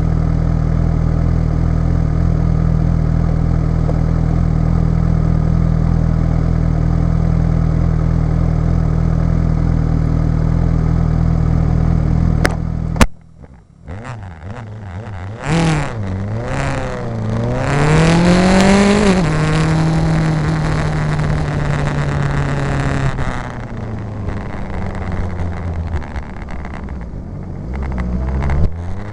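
A motor vehicle engine idling steadily, then, after a sudden break about halfway through, revving and accelerating with its pitch rising and falling through gear changes, settling, and rising again near the end.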